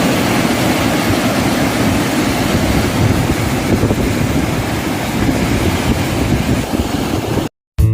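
Steady roar of rushing water from Haew Narok waterfall, a loud even rush that cuts off suddenly near the end.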